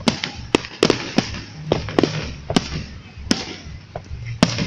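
Fireworks going off in a string of sharp bangs, about two a second at uneven intervals.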